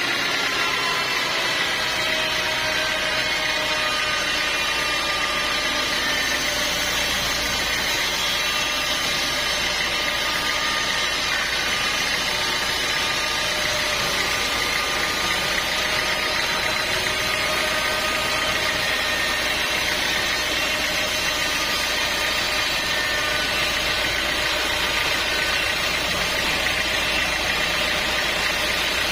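Sawmill machinery running steadily: a continuous engine-like drone with a steady high whine over it.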